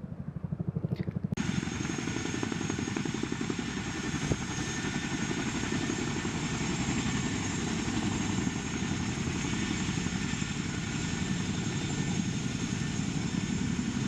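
Helicopter rotors beating in a rapid, steady pulse, with a loud steady rushing noise of engine and rotor wash cutting in about a second and a half in.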